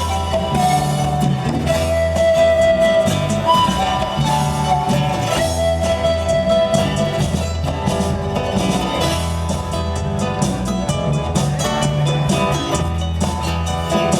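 Live band music with a steady beat: bass and drums under a held melody line.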